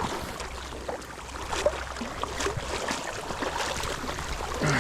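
River water running steadily, with scattered light clicks and knocks over it.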